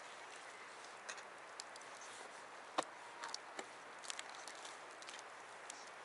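Wood fire crackling: irregular sharp pops and snaps, the loudest about three seconds in, over a steady faint hiss.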